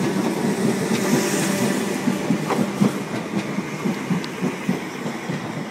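Electric multiple-unit passenger train running through the station, its wheels clicking over rail joints, with a steady electric hum that fades as it moves away.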